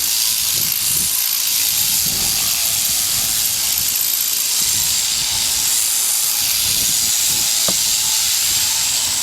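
Electric sheep-shearing clippers running steadily close by, a continuous high-pitched hiss as they cut through the fleece.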